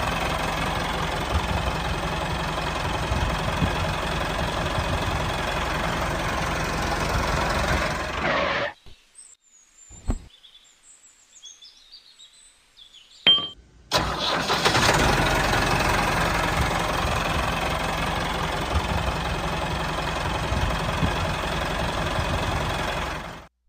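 Tractor engine running steadily. It stops about eight and a half seconds in, leaving near silence with a few faint clicks for about five seconds, then starts running again.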